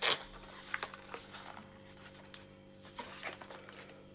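A short rustle at the start, then a few light clicks and taps of small objects being handled, over a faint steady hum.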